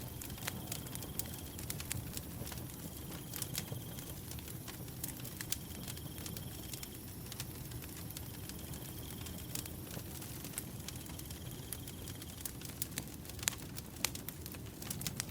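A wood fire burning, with frequent sharp crackles and pops over a steady low flame rumble. A cricket trills in pulsed bursts of about a second, repeating roughly every three seconds.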